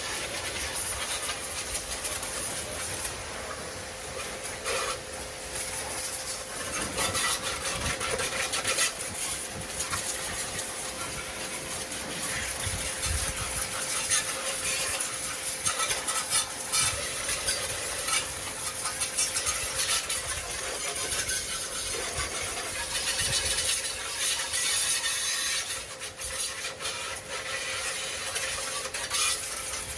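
Water spray hissing steadily as a hand tiller is hosed down and washed, with scattered knocks on the machine.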